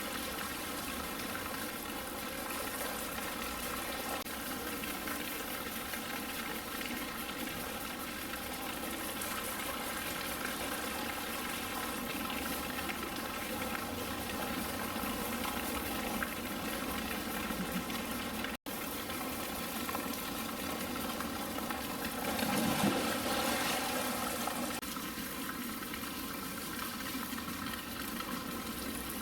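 Steady rushing of flowing water, swelling slightly a little past the middle.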